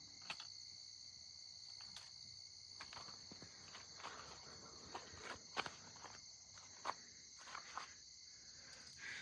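Crickets chirping in a steady, high-pitched chorus, faint, with scattered light clicks and rustles.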